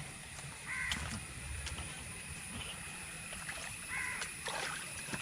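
Water sloshing and splashing, with a few short knocks, as the flooded drain is worked on.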